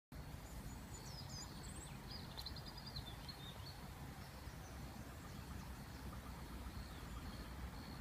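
Faint small birds chirping and trilling in the first few seconds, then a short high note repeated about twice a second near the end, over a low steady rumble.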